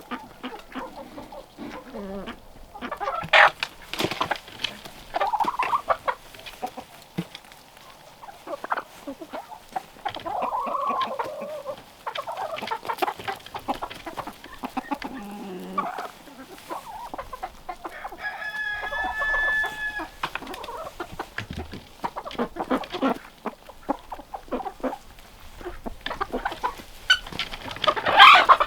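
Domestic chickens clucking on and off, with one longer, drawn-out call about two-thirds of the way through.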